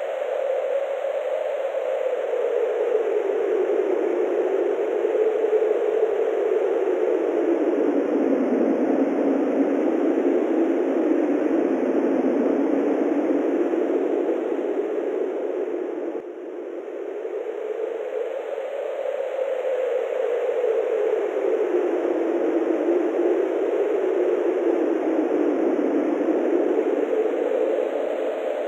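Wind blowing steadily, a hollow rushing noise that slowly rises and falls in pitch in long swells, with a brief sudden drop in level about sixteen seconds in.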